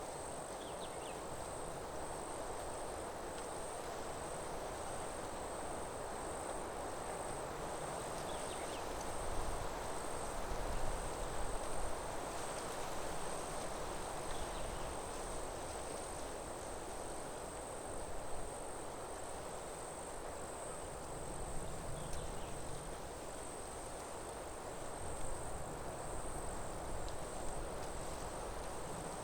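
Forest ambience: insects trilling steadily in one high, unbroken band over a constant rush of wind in the trees. The wind swells in a few low gusts about ten seconds in.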